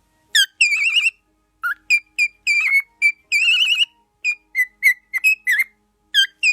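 A parrot whistling a quick run of about fifteen loud, clear notes: short downward-swooping chirps mixed with several longer warbling trills.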